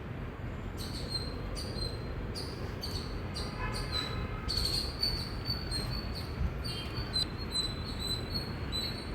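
Indian palm squirrel chirping: short, sharp, high-pitched calls repeated about twice a second, starting about a second in, over a steady low background rumble.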